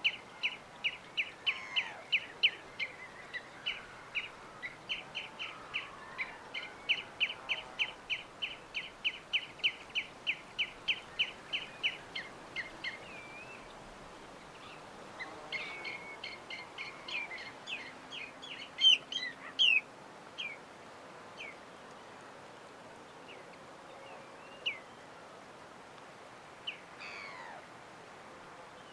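A bird repeats short, high chirps about three or four times a second for the first twelve seconds or so. After a short pause it gives a quicker, more varied run of calls, then only a few scattered chirps near the end, over a faint steady background hiss.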